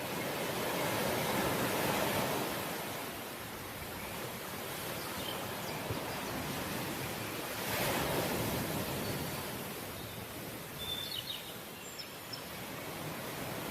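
Ocean surf: waves washing in steadily, swelling louder twice as breakers come in.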